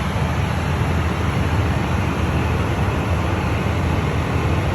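Steady cabin noise of a private jet in cruise flight, a deep, even rumble of engines and airflow.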